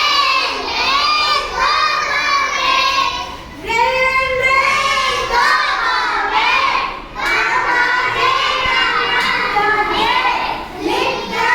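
Young children singing a song together, in phrases with short breaks between them.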